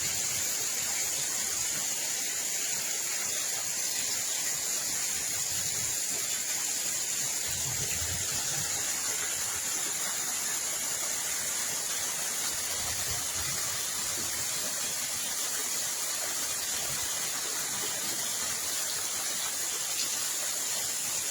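Steady rushing hiss of water, even and unbroken, with a few faint low rumbles in the middle.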